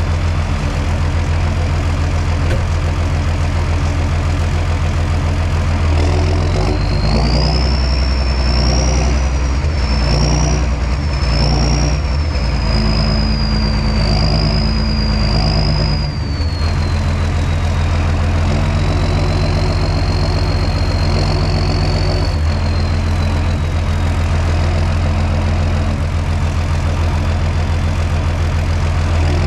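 John Deere 6630 Premium tractor's diesel engine running steadily under plowing load. About six seconds in, the engine note shifts and a high wavering whine comes in. The whine fades around sixteen seconds, then returns more faintly for a few seconds before dying away.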